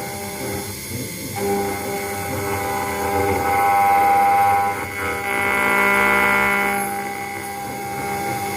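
CNC router engraving a brass plate: a steady, high spindle whine layered with motor tones that swell louder twice in the middle and dip briefly as the machine changes direction between passes.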